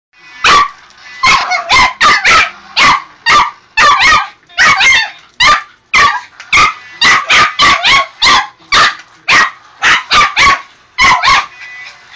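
A dog barking over and over, about two sharp barks a second, often in quick doubles. The barks stop a little before the end.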